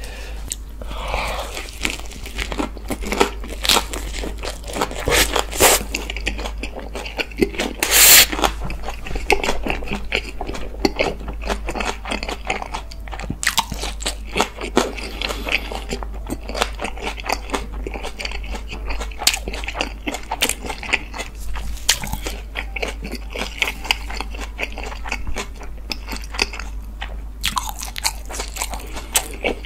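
A person biting into and chewing a lettuce wrap (ssam) of thick oak-smoked pork belly, with repeated crisp crunches as the lettuce breaks. The loudest crunch comes about eight seconds in.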